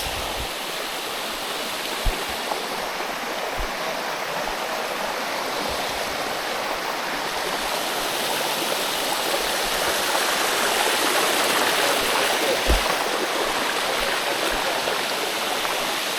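Waterfall water rushing steadily over rock, swelling a little toward the middle, with a few brief low thumps.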